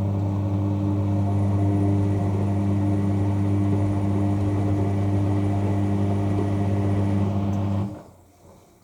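Washing machine drain pump humming steadily as it pumps out the wash water, then switching off abruptly about eight seconds in.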